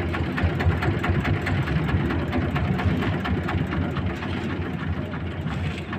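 Boat engine running steadily: a low rumble with rapid, even ticking.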